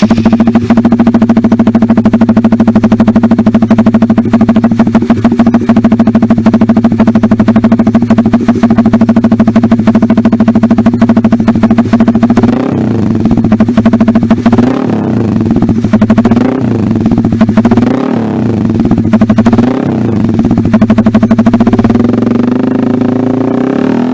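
Motorcycle engine running through an imported SC Project CRT Titan-style aftermarket racing silencer. It idles steadily and loudly for about half the time, then gets a string of quick throttle blips, each revving up and falling back, before settling back to idle near the end.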